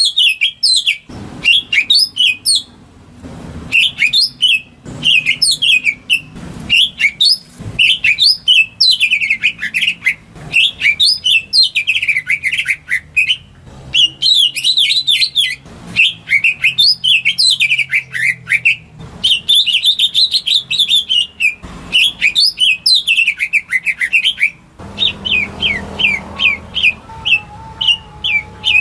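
Cucak ijo (green leafbird) singing a fast, varied song of high chirps, trills and sliding whistles, phrase after phrase with short pauses between.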